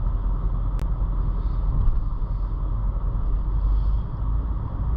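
Steady low rumble of a car running, with one sharp click about a second in.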